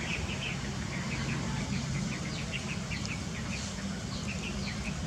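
Small birds chirping in short, quick high notes, several a second, over a steady low hum.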